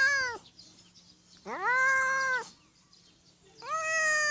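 A cat meowing again and again: the end of one meow, a full meow of about a second, and another starting near the end. Each call rises in pitch at the start and falls away at the end.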